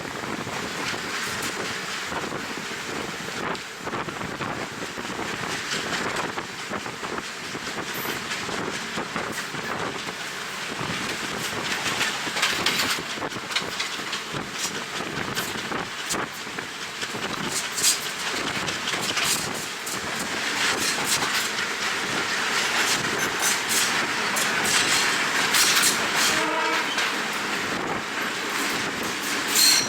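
Passenger train running along the line, wheels clattering over the rail joints, with wind buffeting the microphone at an open carriage window.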